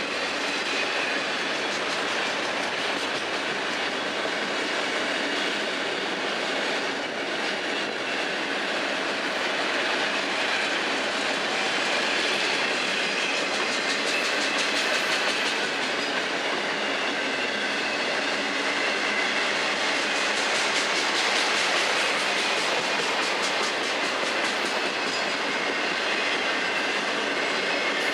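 Autorack freight cars of a long freight train rolling past at steady speed: a continuous rumble of steel wheels on rail, with the clickety-clack of wheels passing over rail joints.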